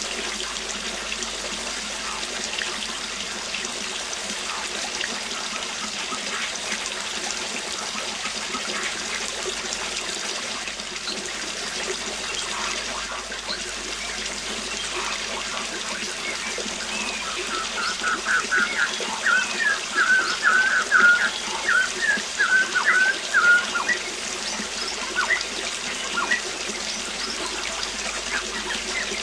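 Waterfall rushing steadily with a bird singing over it: scattered short chirps, then a quick run of bright chirps about two-thirds of the way through, the loudest part.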